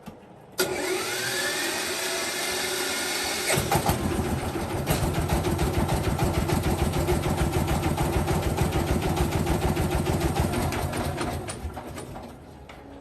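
An engine being started: the starter spins up with a rising whine for about three seconds, then the engine catches and runs with a fast, even pulse before dying away near the end.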